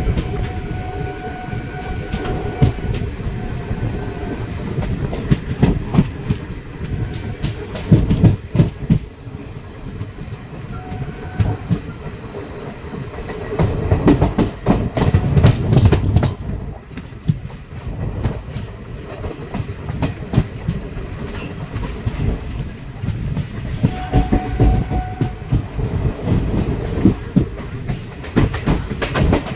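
Indian Railways express train running through a junction, heard from on board at an open door or window: wheels clattering over rail joints and points, heaviest about a third of the way in and around the middle. The locomotive horn sounds three short times up ahead, near the start, about a third in and near the end.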